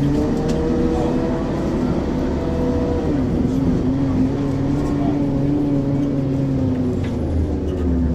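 Ikarus 435 articulated bus's diesel engine pulling under load through its ZF automatic gearbox. The engine note dips at a gear change about three seconds in, holds steady, then drops back near the end as the bus comes off the throttle.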